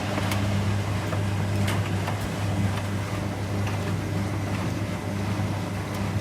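Washing machine running: a steady low motor hum under the noise of the turning drum, with a few light clicks.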